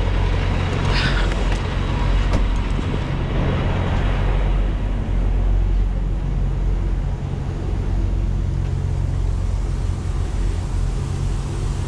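Semi-truck diesel engine running with a steady low drone, with a brief sharper sound about a second in.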